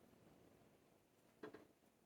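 Near silence, with one faint, short soft rustle or tap about one and a half seconds in.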